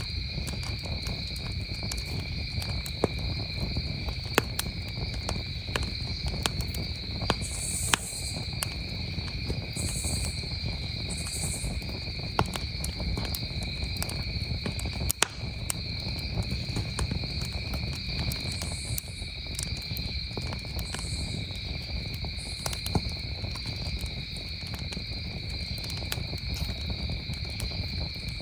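Campfire crackling with frequent sharp pops over a low rumble of flame, and a steady chorus of crickets trilling behind it.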